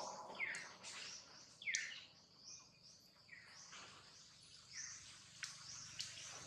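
Bird calls: a few short chirps, each falling in pitch, about four of them spaced a second or more apart, over faint outdoor background noise with a few light ticks.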